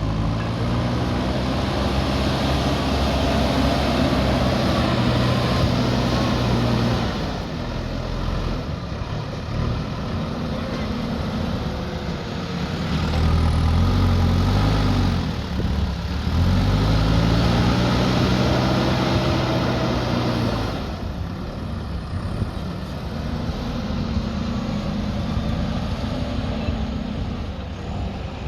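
Diesel engine of an earthmoving machine at work, revving up and dropping back again and again as it takes load. It rises early on and holds for a few seconds, falls off, then climbs again twice in the middle before settling to a lower, steadier running near the end.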